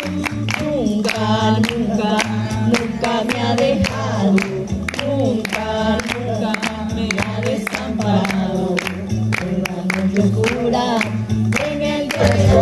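A woman singing a Spanish gospel worship song over an accompaniment with a steady beat and a repeating bass line.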